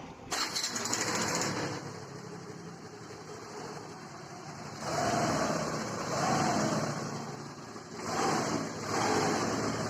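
Hero Duet scooter's single-cylinder engine starting and idling, with the revs rising and falling in two spells in the second half. It runs without the earlier rattle, a new timing chain having been fitted.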